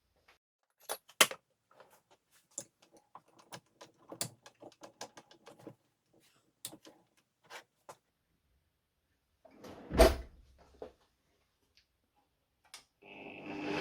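Scattered knocks and clicks from handling things at a workbench, with a sharp knock about a second in and a heavier thud about ten seconds in. A motorized machine starts up right at the end.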